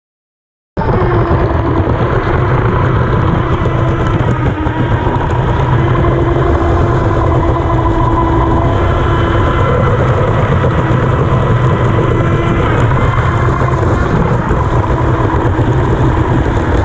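Onboard sound of a 1/12-scale electric R/C unlimited hydroplane running on the water, heard from inside its cowling: a dense, steady rumble of hull and water with a steady motor whine. It cuts in suddenly about a second in.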